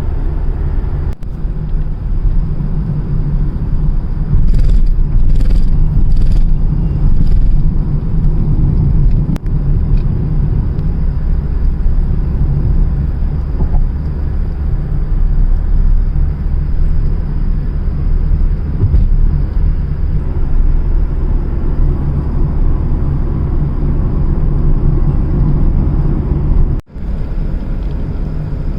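Steady low rumble of a moving car heard from inside the cabin: tyre and engine noise at road speed. A few light ticks come about five to seven seconds in.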